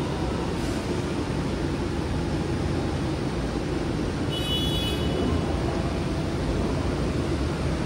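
Steady low rumble and hum of a JR West 225 series electric train standing at a station platform, amid station noise. A short high-pitched beep sounds about four and a half seconds in.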